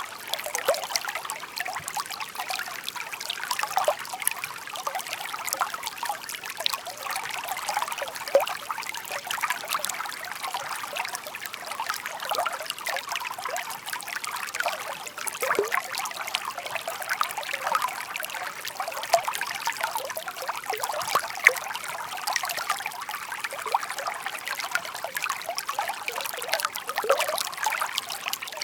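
Shallow stream babbling and trickling steadily over stones, a continuous bright burble full of small splashes and gurgles.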